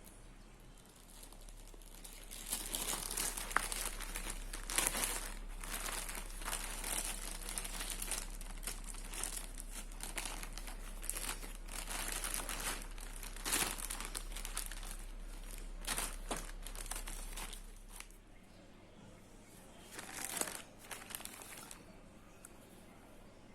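Crinkly wrapping being handled and torn open, with dense crackling and rustling that runs for most of the time, stops, then comes back in one short burst near the end.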